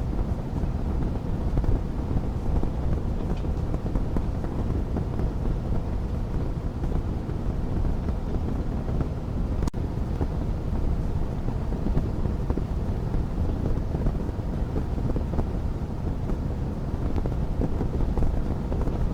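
Fire burning in a fireplace with a steady low roar and one sharp crackle about halfway through.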